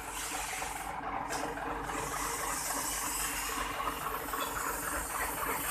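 Workshop background noise: a steady hiss with a low run of machinery underneath, briefly easing about a second in.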